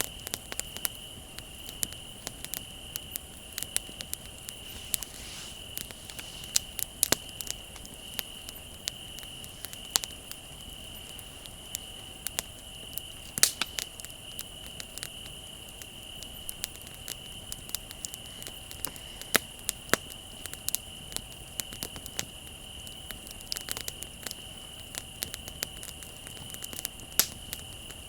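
Wood bonfire crackling, with irregular sharp snaps and pops, a few louder ones. Under it, a steady high chirring of crickets.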